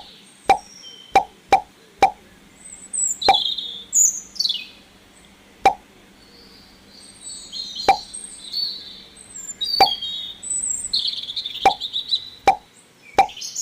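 Drops of water falling one at a time into water, about a dozen irregular plops with a long pause in the middle, while small birds chirp.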